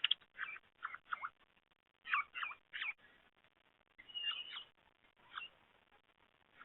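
Small birds chirping at a bird feeder: short, quick calls in clusters every second or so, sounding dull and thin, with the high end cut off as by a small camera microphone.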